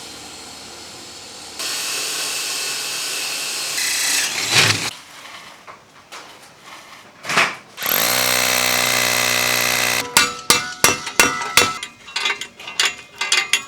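Electric drill running in several separate stretches, a steady high whine, followed near the end by a quick run of sharp clicks and knocks.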